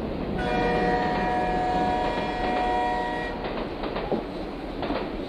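A train horn sounds one steady chord of several tones for about three seconds. A running train rumbles beneath it, with a few sharp clacks after the horn stops.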